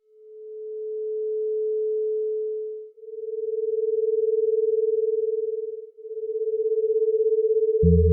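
A steady, mid-pitched pure electronic tone that fades in and breaks off briefly twice, about every three seconds. After the first break it carries a fast wavering pulse. A low hum joins it near the end.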